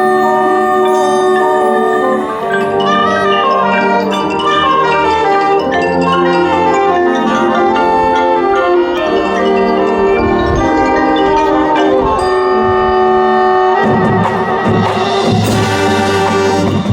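High school marching band playing its field show, with mallet percussion prominent in a melodic passage over held chords. The texture grows fuller and denser about fourteen seconds in.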